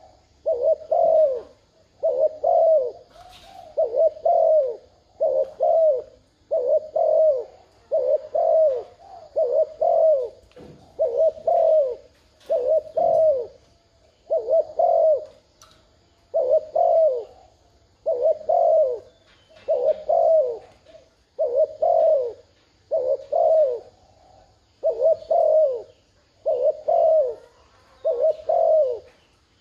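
Spotted dove giving the 'thúc gù' coo, the call used as a lure to provoke wild doves. It comes as a steady run of short, low coos, a little over one a second.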